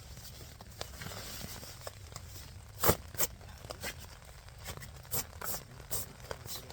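Camping gear being handled and packed in the wet: rustling and crinkling with scattered knocks, the loudest a sharp knock about three seconds in.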